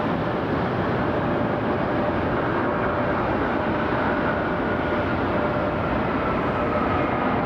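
Jet engine noise from a Delta Boeing 757-200 arriving on the runway: a steady rushing noise with a faint whine that slowly falls in pitch.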